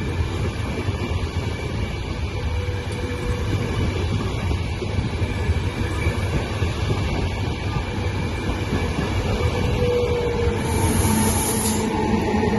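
Train moving along the tracks through a station, a steady heavy rumble with faint thin tones of wheel squeal above it. A short high hiss comes near the end.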